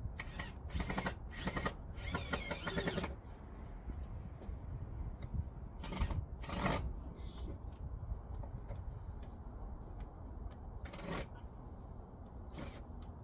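Irregular knocks, clatters and scraping of a heat pump's metal top cover being lowered and fitted into place, busiest in the first few seconds, with a few more knocks later, over a steady low rumble.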